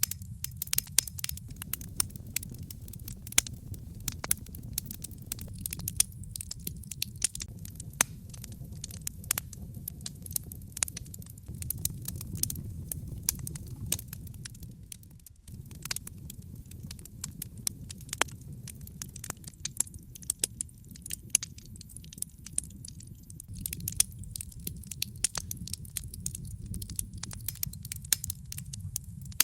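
Wood fire burning in a fireplace, logs crackling with frequent sharp irregular pops over a steady low rumble. The rumble drops out briefly about halfway through.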